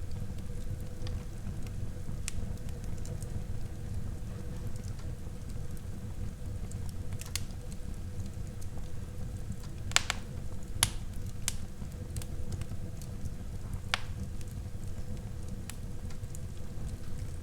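Wood fire burning in a fireplace: a steady low rumble of flames with scattered crackles and a few sharper pops, the loudest about ten and eleven seconds in and again near fourteen seconds.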